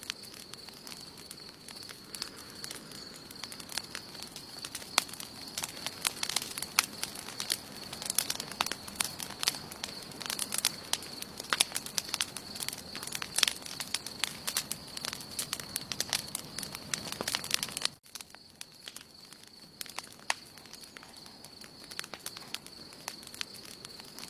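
Campfire of burning wood crackling, with frequent sharp pops and snaps that come thickest in the middle, over a steady high-pitched tone. The sound cuts out for an instant about three-quarters of the way through, then the crackling goes on more sparsely.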